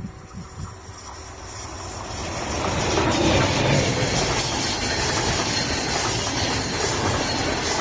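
Train hauled by a Siemens Vectron locomotive passing close by: the rolling noise builds over the first few seconds into a loud, steady rush of wheels on rail.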